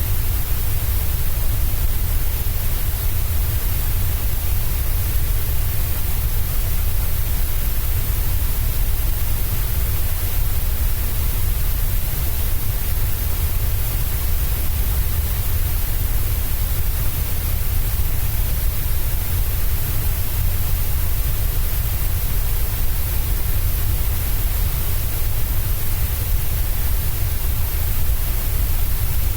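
Steady, unbroken white noise played as a baby's sleep aid, with a strong deep rumble underneath and a hiss on top.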